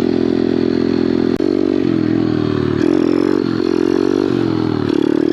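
Small Kawasaki pit bike engine running at high revs. There is a single sharp click about a second and a half in, then the revs dip and rise several times as the throttle is worked.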